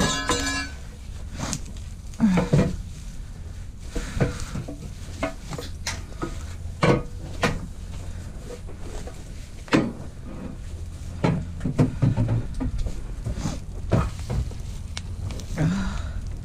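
Pieces of scrap metal being loaded into a vehicle: irregular clanks, knocks and scrapes, a dozen or so spread unevenly, over a steady low hum.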